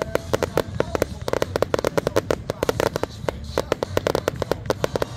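Fireworks display: a dense, unbroken barrage of sharp bangs and crackling, many reports a second, from aerial shells bursting overhead and effects firing from the ground.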